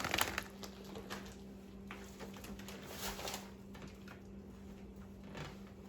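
Intermittent light rustling and handling noises, likely from the bag of birdseed and kitchen containers being handled, over a steady low hum.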